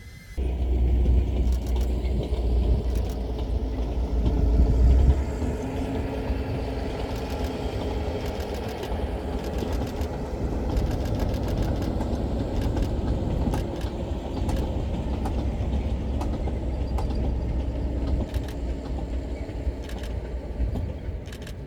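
A heritage train running by with a steady, heavy rumble. It starts abruptly about half a second in and is loudest for the first five seconds.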